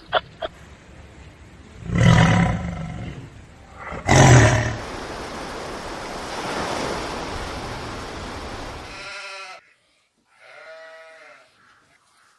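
Animal calls: two loud, low calls about two and four seconds in, then shorter pitched calls near the end.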